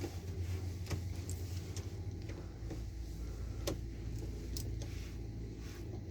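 Steady low hum of a Boeing 787's systems running on APU power, heard in the flight deck, with a few short sharp clicks.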